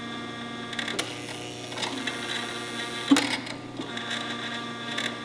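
Steady electric hum of a running shop machine, with a light click about a second in and a sharper metallic knock about three seconds in.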